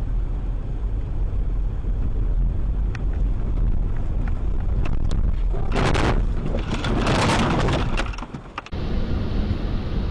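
Car dash-cam audio: a steady low rumble of road and engine noise, with a few sharp clicks. About six seconds in comes a loud, noisy crash lasting about two seconds, typical of a collision, before the sound cuts.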